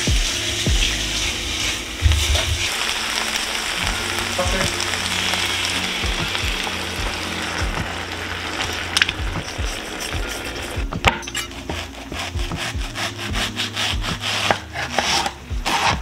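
Diced onion and peppers sizzling as they fry in a pan, with a utensil scraping and stirring. Over the last five seconds, a quick run of sharp knocks and taps.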